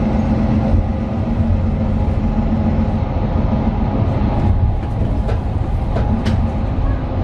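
Inside a 2018 Mercedes-Benz Citaro 2 city bus driving along: steady low rumble of its OM 936 diesel engine and road noise, with a few short rattles and knocks in the cabin about two-thirds of the way through.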